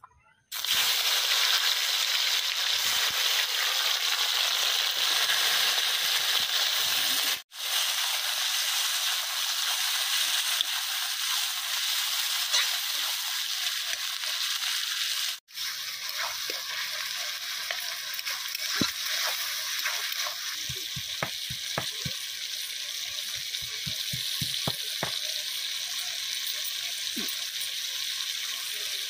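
Chopped onions and tomatoes sizzling loudly in hot oil in a kadai, just added to the pan. The sizzle breaks off suddenly twice. In the second half it is a little softer, with short clicks and scrapes of a spatula stirring.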